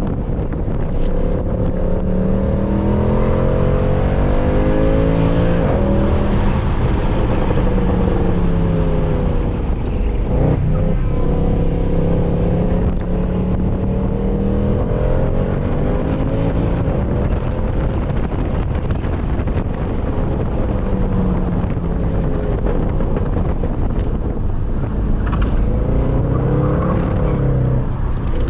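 Mercedes C63 AMG's 6.2-litre V8, with its secondary catalytic converters and resonators deleted, under hard track driving. Its pitch climbs and drops back several times as it accelerates, shifts and lifts, with sharp changes about 6 and 10 seconds in and near the end.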